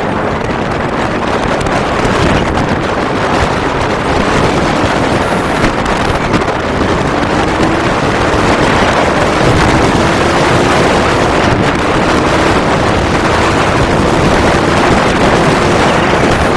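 Wind buffeting the microphone during a motorcycle ride, a steady loud rush, with a faint engine note that slowly rises in pitch through the second half.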